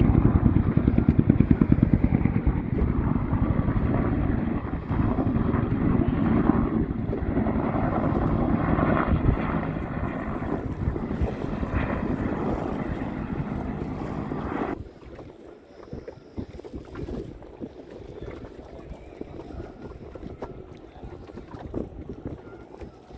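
A low-flying aircraft's engines droning steadily and loudly. The sound cuts off suddenly about fifteen seconds in, leaving quieter wind noise on the microphone.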